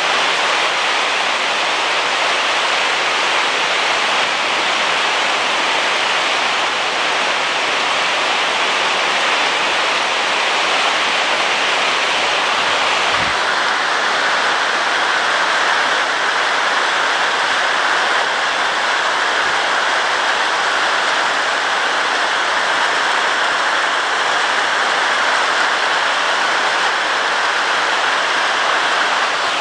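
Heavy rain falling steadily on a roof, a continuous dense hiss; its tone shifts slightly about thirteen seconds in.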